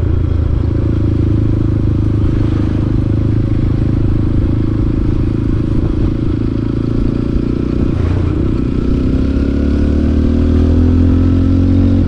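Motorcycle engine running under way on the road, its pitch rising steadily from about two thirds of the way through as it accelerates.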